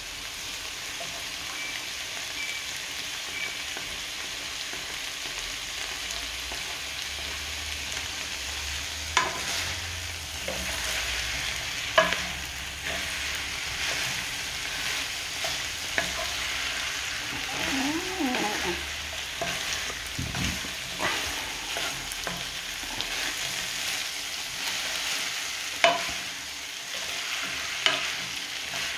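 Vegetables and minced meat sizzling in a non-stick frying pan as a wooden spatula stirs them, with a sharp knock of the spatula against the pan a few times.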